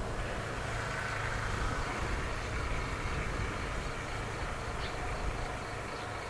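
A motor engine running steadily at a low rumble.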